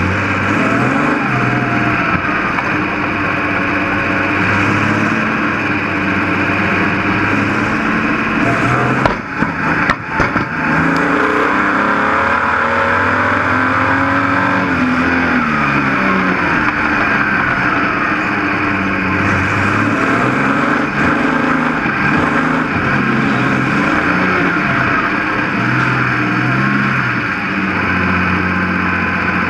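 Stockcar engine racing on a dirt speedway oval, heard from inside the cockpit, its pitch rising and falling as it accelerates and lifts through the turns. A couple of sharp knocks come about nine to ten seconds in.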